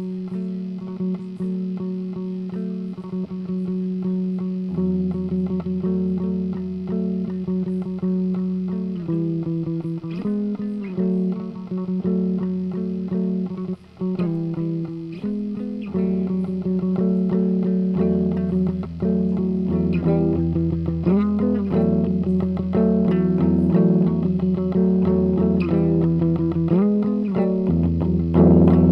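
Instrumental guitar music with held, ringing notes; a bass guitar line comes in about five seconds in, and some notes later slide in pitch.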